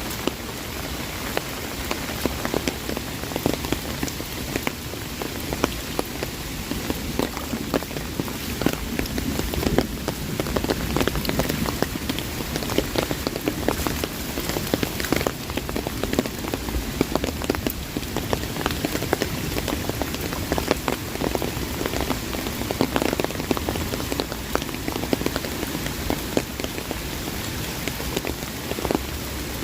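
Heavy rain falling on an umbrella: a dense, continuous patter of sharp drop hits over the steady hiss of the downpour.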